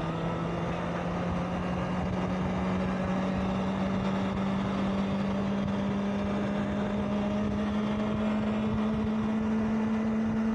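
Honda CBR650R inline-four engine running while the motorcycle is ridden, its note climbing slowly and steadily as the bike gathers speed, over a steady rush of wind and road noise.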